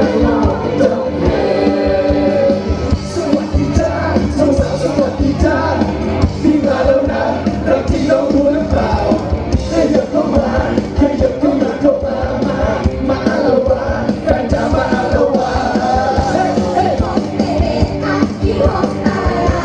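Live band music with sung vocals and a steady beat, recorded in the crowd, with audience yells mixed in.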